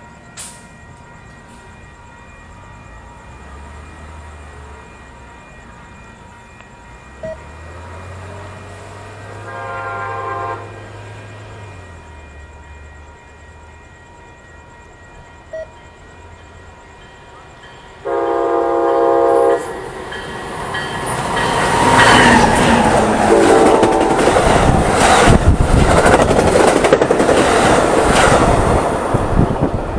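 A passenger train approaching and sounding its horn: a fainter blast about ten seconds in, a loud blast of several notes at once at about eighteen seconds, and a short toot a few seconds later. It then runs past loud and close, its wheels clattering over the rail joints.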